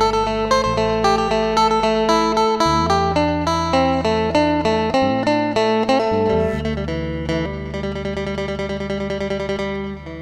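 Phin, the Isan plucked lute, playing a quick melody of plucked notes over sustained low drone tones.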